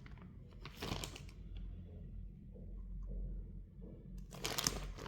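Two short bursts of rustling handling noise, about a second in and near the end, over a low steady hum.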